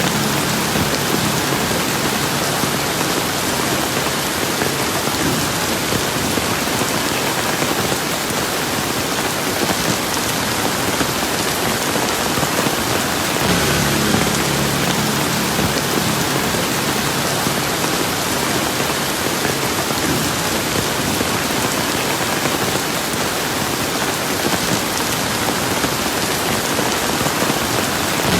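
Steady heavy rain falling on surfaces, an even, unbroken hiss.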